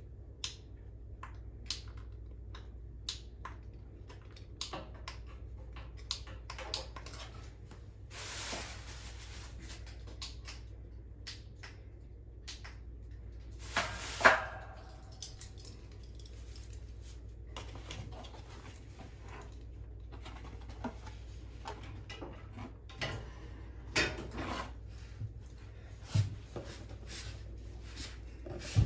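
Scattered clicks and knocks of hard objects being handled, over a steady low hum, with a short hiss about eight seconds in and a louder metallic clank with a brief ring about fourteen seconds in.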